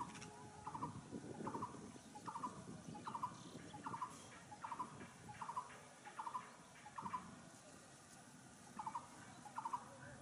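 A bird calling over and over: short calls of a few quick pulses each, about one every three-quarters of a second, pausing briefly before two last calls near the end. Under it is the low, steady rumble of a passenger train running past.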